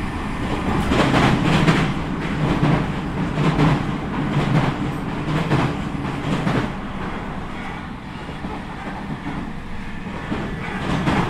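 Running noise heard inside a JR Central 313 series electric train: a steady rumble with the wheels clacking over rail joints about once a second. About two-thirds in the clacking stops and the noise drops to a lower, smoother rumble.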